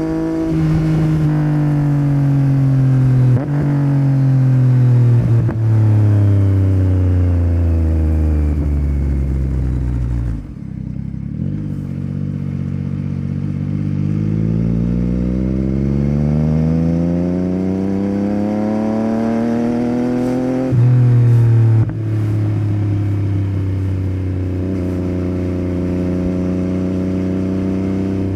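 Yamaha MT-09's 890 cc inline-triple engine through a Yoshimura R77 carbon exhaust, ridden on the road: the revs fall steadily for about ten seconds to a low, then climb for about eight seconds. A short louder burst comes about 21 seconds in, after which the engine holds a steady cruise.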